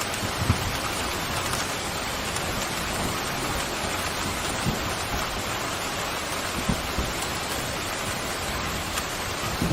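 Pouring rain, a steady even hiss, with a few brief low thuds, the sharpest about half a second in.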